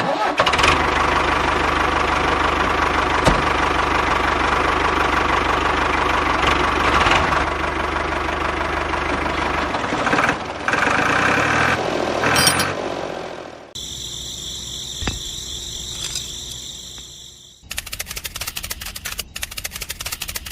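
Small motor running steadily, then cutting abruptly to a quieter, higher whir about 14 seconds in, and to a fast clicking rattle near the end.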